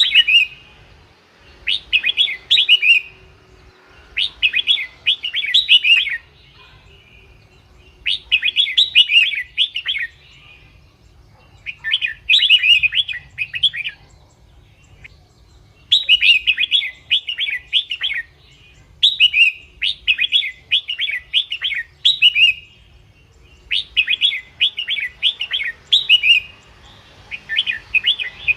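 Red-whiskered bulbul singing: short phrases of quick rising and falling notes, repeated every couple of seconds with brief pauses. It is the kind of song used to lure bulbuls or get caged ones excited.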